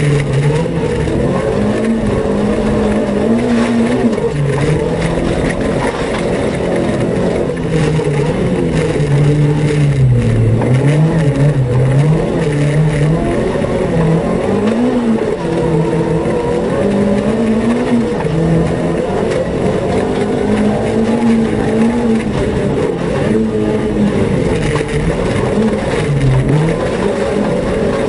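Renault Twingo rally car's engine, heard from inside the cabin, revving hard and unevenly as it is driven: the pitch climbs and falls again and again with gear changes and lifts for corners.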